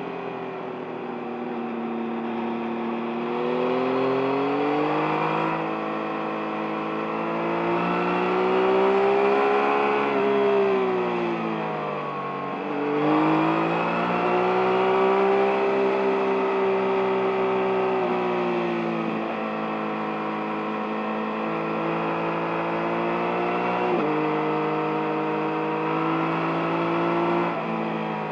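2023 Yamaha MT-09's 890 cc inline-three engine pulling and easing off in turn, its pitch rising and falling smoothly as the bike accelerates and slows through bends. The pitch dips and climbs again about halfway through, and jumps up suddenly near the end, as on a downshift.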